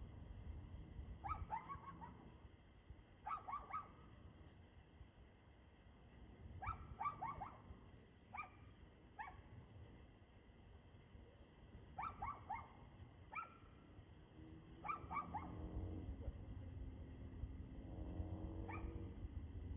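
A dog barking in short bursts of one to four quick, sharp barks, repeated every second or few, sounding faint. A low, steady hum comes in during the last few seconds.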